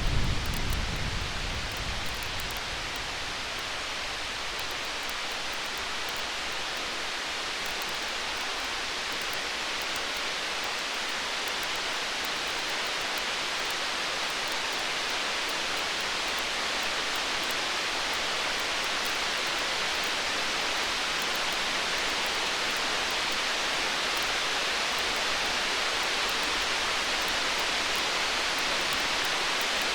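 The tail of a distant thunder rumble dies away over the first couple of seconds, leaving a steady storm hiss like rain that slowly swells, with faint, sparse campfire crackles.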